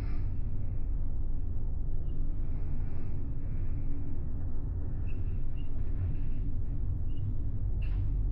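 Steady low rumble of the car ferry Ishikari under way at sea, its engines and hull noise droning without change, with a few faint ticks.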